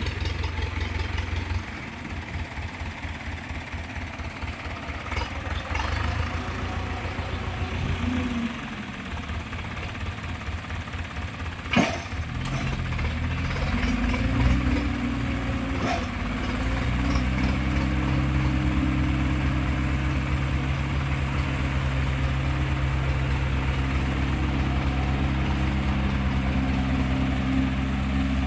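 Heavy vehicle engine running, its speed rising and falling over the first half, then running steadily from about seventeen seconds in. A sharp knock sounds about twelve seconds in.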